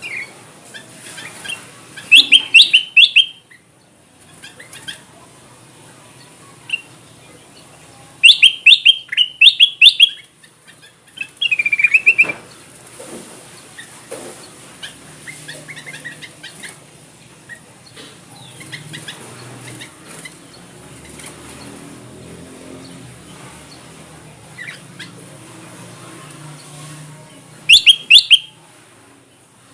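Kutilang emas, a bulbul, singing in loud bursts of quick chattering notes: four outbursts about two, eight, twelve and twenty-eight seconds in, with fainter calls between them. This is a lure recording used to call wild birds in.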